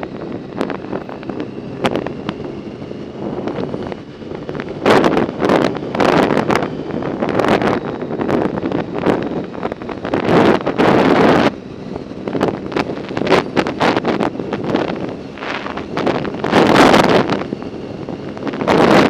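Wind buffeting the microphone of a camera riding along on a bicycle, swelling into loud gusts three times, with scattered sharp clicks and rattles.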